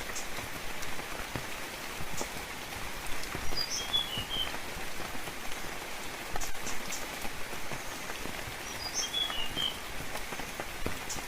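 Steady rain falling with many individual drops ticking, and a bird giving two short bursts of high chirps about four and nine seconds in.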